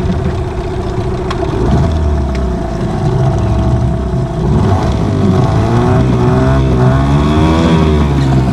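Outboard boat motor running steadily, its pitch rising and falling in the second half. It has just been restarted after priming the gas line, on a used replacement primer bulb after the old one failed.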